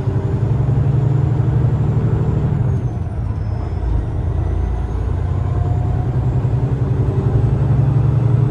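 Peterbilt semi-truck's diesel engine running steadily at highway speed with road noise, heard from inside the cab as a continuous low drone.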